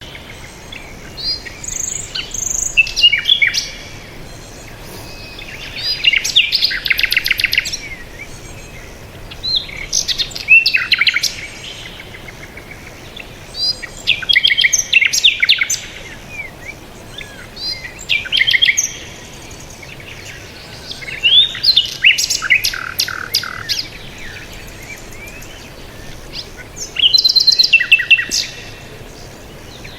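Songbird singing: short, loud phrases of rapid high chirps and trills, each a second or two long, repeated every few seconds over a faint steady background hiss.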